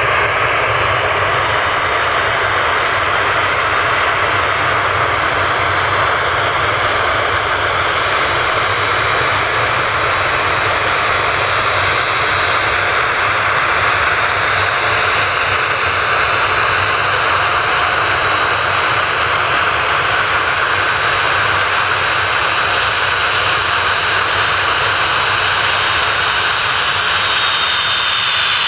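Boeing 737-800's twin CFM56-7B turbofan engines at high thrust as the airliner starts its takeoff roll: a steady loud jet rush with a high whine that slides down in pitch near the end.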